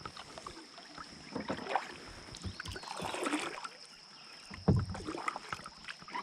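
Knocks, clicks and rustling of gear being handled in a plastic kayak, with one sharper thump a little under five seconds in.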